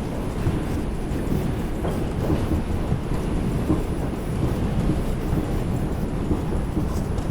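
Inside an R142 subway car running between stations: a steady rumble of wheels on rail, with light knocks here and there.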